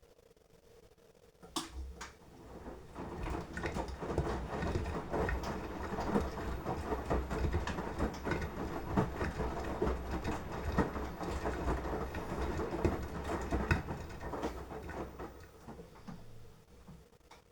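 Beko washing machine drum turning during the wash, laundry tumbling and water sloshing over the motor's low rumble. It starts with a click after about a second and a half, builds up, and dies away near the end as the drum stops.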